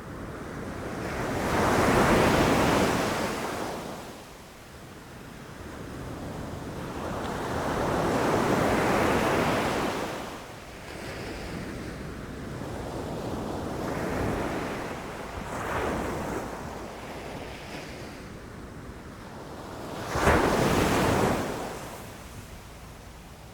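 Ocean waves rushing and crashing, rising and falling in swells every few seconds. The sharpest crash comes near the end, after a quieter stretch in the middle.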